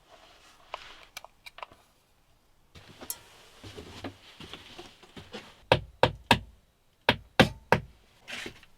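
Sharp knocks in two sets of three, the strokes about a third of a second apart, after a stretch of light clicks and rustling.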